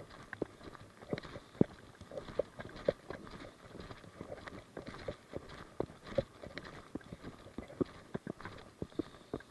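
Irregular knocks and clicks, two or three a second, most likely footsteps with gear knocking as a player moves on foot.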